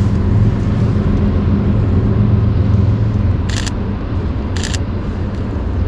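Camera shutter firing twice, about a second apart, over a steady low rumble of a vehicle engine.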